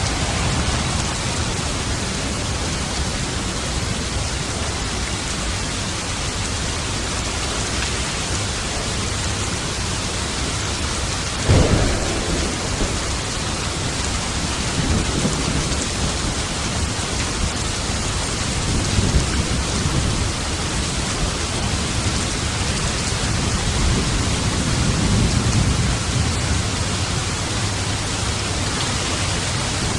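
Heavy, steady rain with thunder: a sharp close thunderclap about a third of the way in, followed by several rolling low rumbles.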